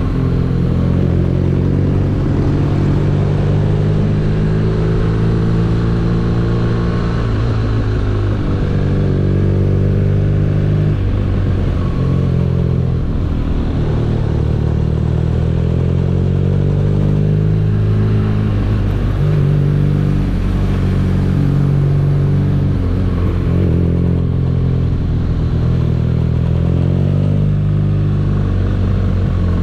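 BMW R nineT motorcycle's boxer twin engine running under way, its pitch rising and falling several times with throttle and gear changes.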